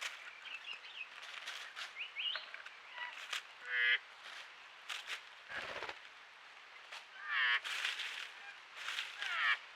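Several forest birds calling: short chirps and quick warbling phrases, with a louder harsh call a little past halfway.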